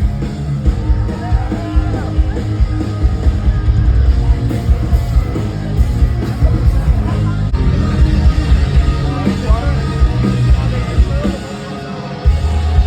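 Live rock band playing loud through a venue PA, heard from the crowd, with heavy drums and bass and some singing. The sound drops back briefly about a second before the end, then the full band comes back in.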